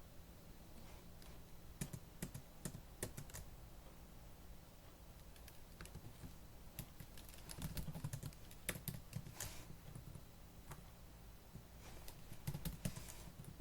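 Fast typing on a laptop keyboard: runs of quick key clicks with pauses of a few seconds between them.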